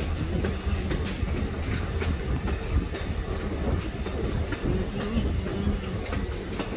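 Passenger train rolling along the track, heard from aboard: a steady low rumble with scattered sharp clicks of the wheels over the rail joints.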